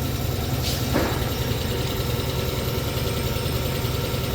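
A steady low motor drone with a fast flutter runs throughout, with a single light click about a second in.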